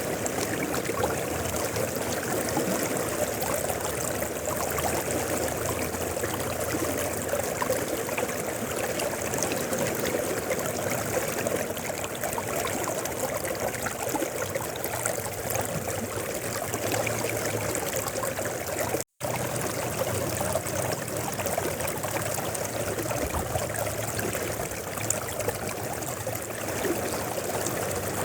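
Mountain river flowing: a steady rush and trickle of water. It cuts out for a split second about two-thirds of the way through, then carries on unchanged.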